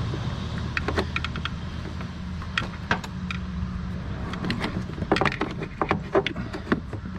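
Scattered light clicks and clinks of metal parts and tools being handled while a brake master cylinder is worked free. They come more often in the second half, over a steady low hum.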